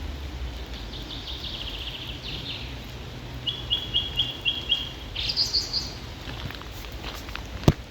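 A songbird singing: a trill, then a run of about five evenly repeated notes, then a brief higher phrase. A single sharp click near the end.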